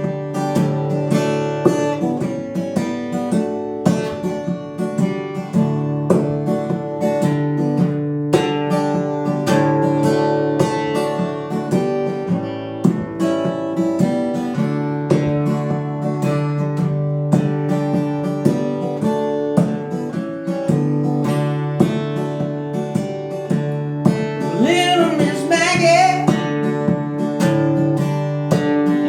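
Acoustic guitar fingerpicked with bare fingers rather than a pick, a steady run of plucked notes. A short vocal line comes in about 25 seconds in.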